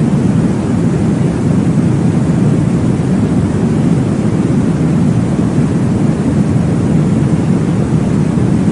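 Steady low whooshing noise of a baby-sleep womb-sound track, deep and rumbling with little treble, unchanging throughout.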